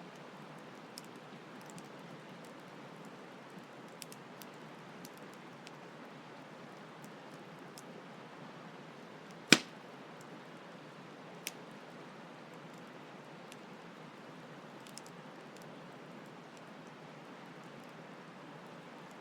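Campfire crackling with scattered small pops over a steady hiss of flowing stream water; one sharp, loud pop comes about halfway through and a smaller one two seconds later.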